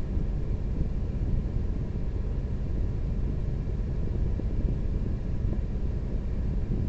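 Steady low rumble of a running vehicle, heard from inside its cabin.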